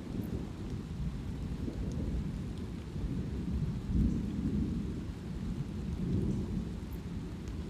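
Distant thunder rumbling low and continuously, swelling about four seconds in and again near six seconds, over light rain with a few scattered drop ticks.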